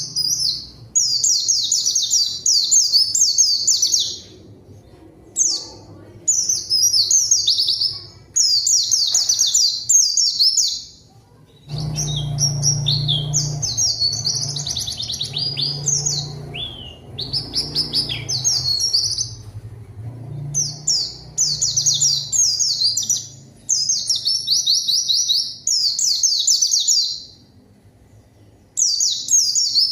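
White-eye (pleci) in full continuous song: rapid, high, chattering trilled phrases a second or two long, repeated again and again with short pauses between them.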